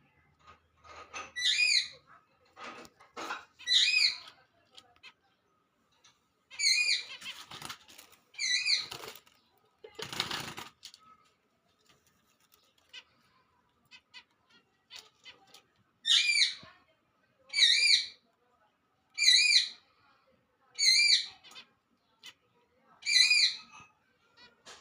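Pet finch calling over and over, each call a wavering, nasal-sounding tone about half a second long. The calls come every second or two in two runs, about four early on and five more from about 16 seconds in, with a brief rustling burst about ten seconds in.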